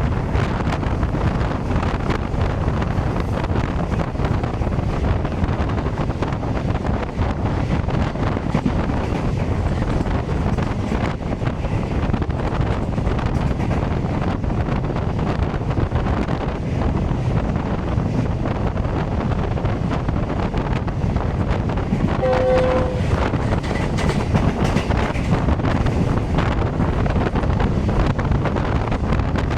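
Passenger train running past at a station, a steady rumble with wheels clattering over rail joints and wind buffeting the microphone. About 22 seconds in, a brief horn-like tone sounds.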